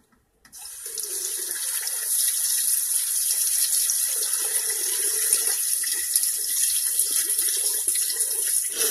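Steady stream of running water, starting abruptly about half a second in.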